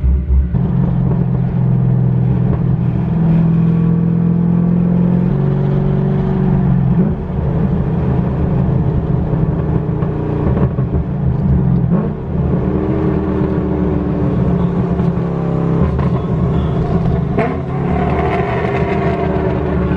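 Cammed 6.2-litre LS3 V8 of a 2011 Camaro running through a straight-piped exhaust with the muffler deleted, a rough, loud note while being driven. The pitch climbs a little for a few seconds, then drops about seven seconds in, with smaller rises and falls later.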